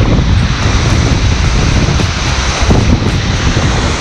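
Steady, loud rush of the Stuibenfall, a large alpine waterfall, heard close up, with gusting wind buffeting the microphone.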